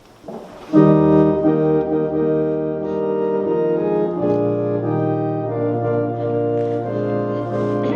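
Organ playing sustained chords of a hymn introduction, starting about a second in, with a deep bass note joining about four seconds in.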